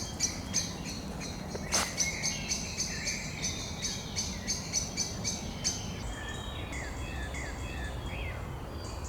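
Birds calling in woodland: a rapid, even series of high ticking notes, about three a second, that stops about six seconds in, over short sliding chirps. A single sharp click about two seconds in.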